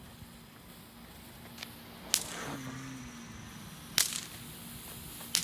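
Small fireworks going off: three sharp cracking pops, about two seconds in, four seconds in and near the end, over a faint hiss.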